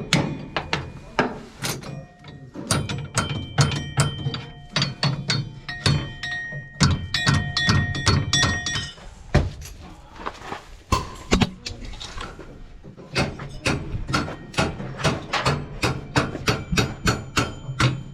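Hammer pounding on steel to drive a bearing off a keyed shaft on a John Deere S690 combine. The blows come about three a second with a metallic ring, and thin out briefly past the middle before picking up again.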